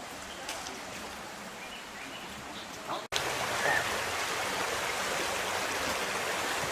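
Hot-spring water running and splashing steadily. An abrupt break about three seconds in, after which the water sounds louder.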